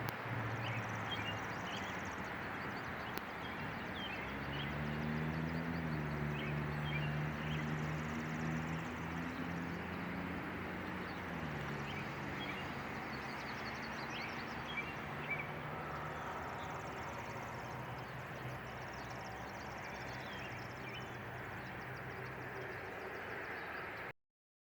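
Outdoor background noise with small bird chirps throughout and the low hum of a passing vehicle engine, strongest from about four seconds in to about twelve; the sound cuts off abruptly near the end.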